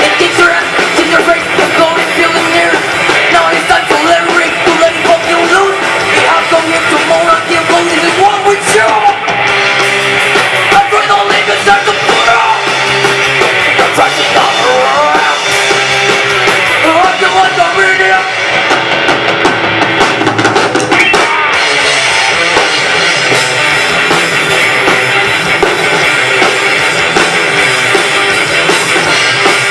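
A rock band playing live: drum kit and electric guitars in a loud, continuous rock number.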